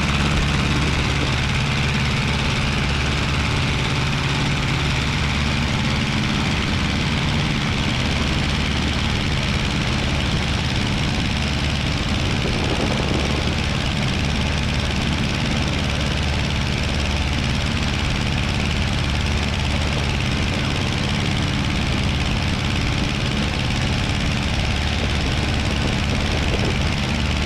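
Aeronca 7AC Champ's small air-cooled engine and propeller droning steadily in flight, heard from inside the cockpit.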